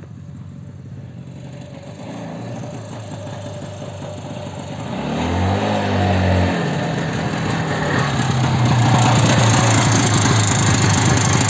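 Homemade quad bike's Izh Planeta 5 single-cylinder two-stroke motorcycle engine running, revved once about five seconds in with a rise and fall in pitch, then running louder and steady.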